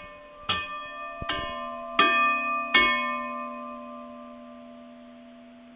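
A run of five bell-like chime notes struck about every three-quarters of a second, each ringing on and blending into a slowly fading chord.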